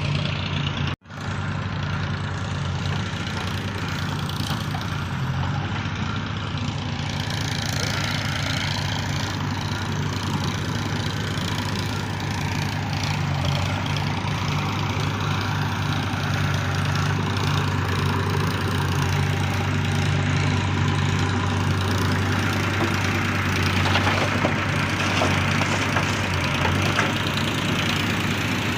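Diesel engine of a JCB 3DX backhoe loader running steadily while it loads murum, with a brief break in the sound about a second in.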